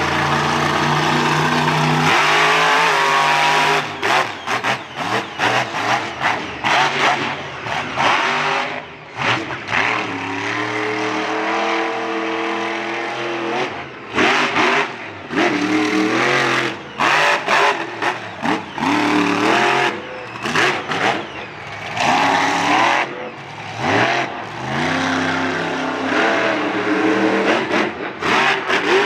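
Monster truck engine revving hard, its pitch climbing and falling over and over as the throttle is opened and chopped, with frequent abrupt cut-offs.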